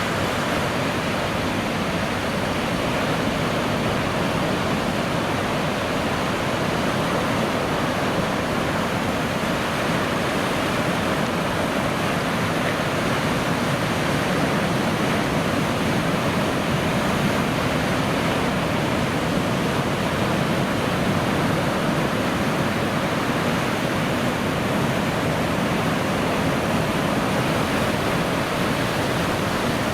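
Ocean surf: a steady, continuous rush of breaking waves and white water.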